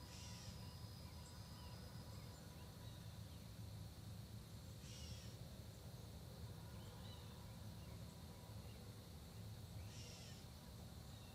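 A bird giving a short, harsh call three times, about five seconds apart, with fainter chirps from other birds between. Underneath run a steady high insect drone and a steady low rumble.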